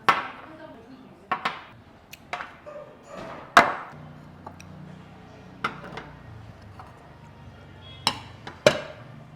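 Eating utensils knocking and clinking against plates and bowls at a table: sharp separate clinks at irregular intervals, the loudest about three and a half seconds in.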